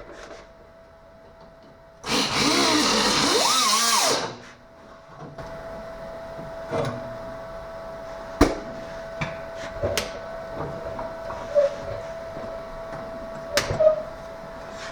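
A power tool runs on sheet metal for about two seconds, its whine sliding up and down in pitch. A steady background hum with scattered sharp clicks and snaps follows.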